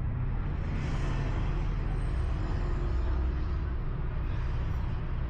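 Street traffic: a steady low engine rumble, with a vehicle swishing past about a second in.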